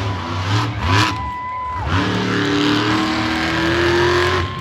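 Monster truck engine revving: a couple of quick blips, then one long pull climbing steadily in pitch for about two seconds before dropping off near the end, with a steady high whine over it.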